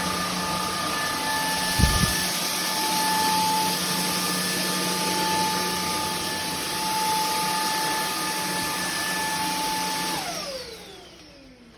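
Bulelink cordless stick vacuum running with a steady high motor whine and rushing air, a low knock about two seconds in. Near the end it is switched off and the motor winds down, its pitch falling as it stops.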